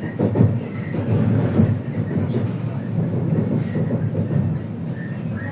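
Running rumble inside the passenger saloon of an EG2Tv Ivolga 4.0 electric train, with brief high squeaks coming through now and then.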